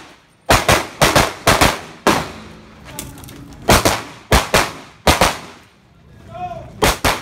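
A string of about ten pistol shots fired during an IPSC course of fire, some in quick pairs and some singly, with pauses of up to about a second and a half between groups. Each shot leaves a short echo.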